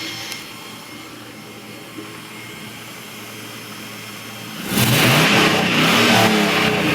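Jeep CJ5's swapped-in 5.3-litre V8 idling through its new dual exhaust, then revved hard about two-thirds of the way in, its pitch rising and falling as the throttle is worked.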